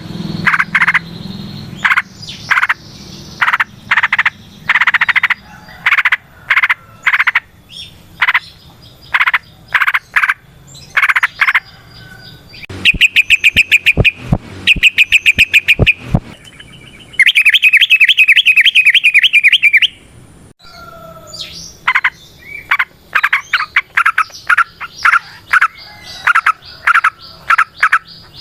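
Yellow-vented bulbul (trucukan) singing long, fast runs of loud, clear chattering notes, with two dense rapid trills in the middle.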